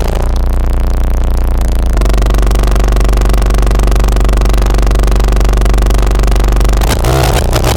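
Distorted modular-synthesizer drone run through Death By Audio fuzz and filter pedals: a loud, buzzing low tone with a dense stack of overtones. It settles into a steady drone about two seconds in, then breaks into a rougher, noisier texture near the end.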